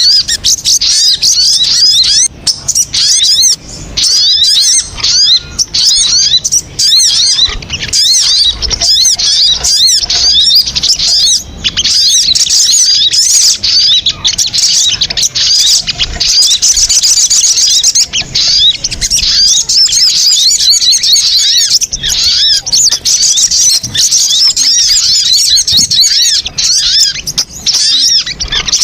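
Crimson sunbird (sogon) lure call: a dense, unbroken stream of rapid, high-pitched twittering notes.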